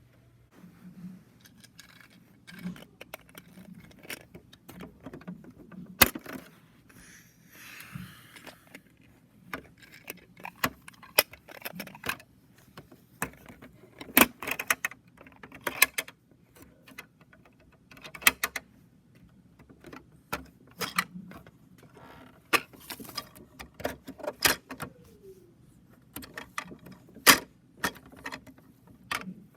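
Irregular clicks, knocks and rattles of a miniature toy rear-loader garbage truck being handled and worked, with a brief scrape about eight seconds in.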